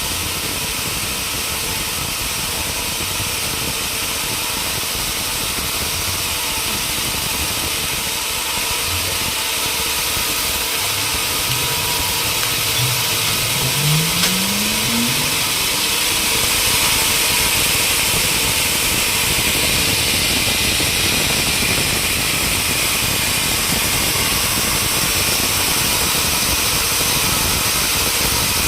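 Steady machinery noise with an engine running, which revs up briefly about halfway through, the pitch rising for a few seconds.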